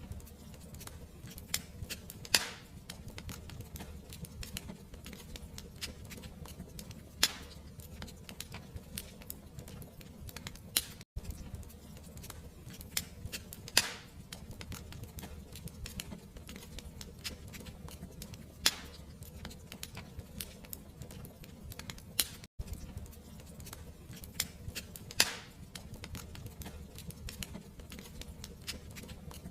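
Fireplace fire crackling: dense small crackles and a sharper pop every few seconds over a low rumble of the flames. The same stretch of crackle repeats about every 11 seconds, each repeat starting after a brief dropout.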